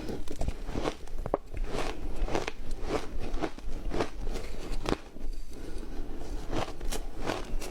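Close-up crunching of ice being bitten and chewed, a steady run of sharp crunches at about two or three a second with a brief pause a little past the middle.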